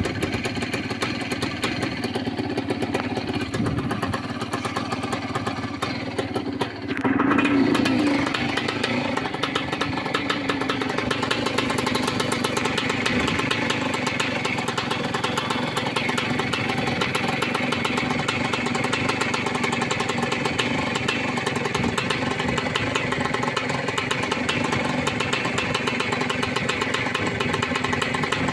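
1981 Yamaha YZ 250's two-stroke single-cylinder engine running steadily, with new piston and rings. The throttle is blipped once about seven seconds in, making it briefly louder, before it settles back.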